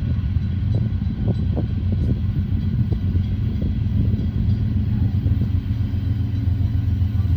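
Union Pacific intermodal freight train's diesel locomotives, a steady low rumble with a few short clicks in the first few seconds.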